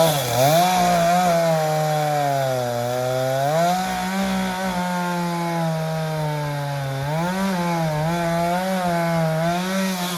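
Two-stroke chainsaw revved to full throttle and cutting into a large tree trunk, its engine pitch sagging and recovering several times under load as the chain bites, then dropping back toward idle at the end.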